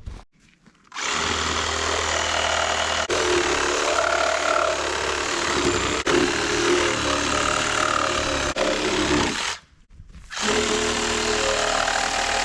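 Cordless battery-powered saw cutting through a log, its motor running under load with a pitch that wavers. It stops for under a second about nine and a half seconds in, then starts again.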